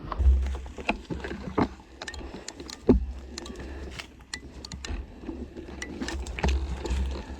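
Wind buffeting the microphone in low, gusting rumbles, with scattered knocks and scrapes.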